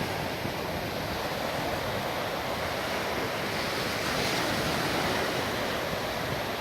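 Surf washing onto a sandy beach: a steady rush of breaking waves that swells a little about four seconds in.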